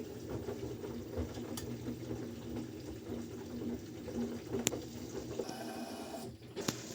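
Washing machine running with water flowing into it, over a steady low hum. A single sharp click comes a little past halfway.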